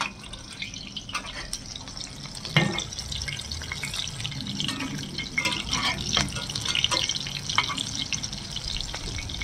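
Minced-pork patty sizzling and crackling in hot oil in a frying pan. The sizzle grows louder and busier about two and a half seconds in, with many small pops.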